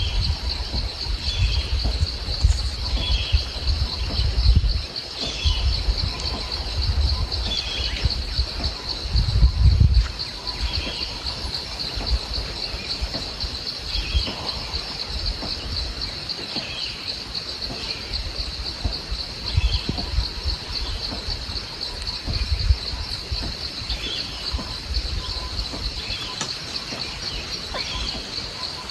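A steady, high-pitched insect chorus, with a short bird call repeated every second or two. An uneven low rumble, such as wind on the microphone, is heaviest in the first ten seconds.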